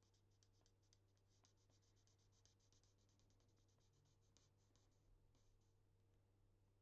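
Very faint, rapid scratching strokes of a colouring pen on card stock as an image is coloured in, stopping about five and a half seconds in.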